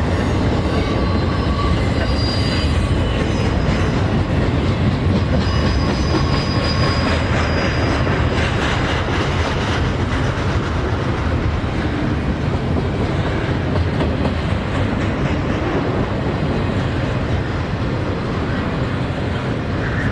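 CSX freight train's cars rolling past on the track with a steady rumble and clatter over the rails, and faint wheel squeal in the first half.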